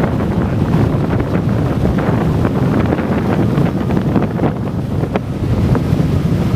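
Strong wind buffeting the microphone: a loud, steady low rush broken by frequent short gusty thumps.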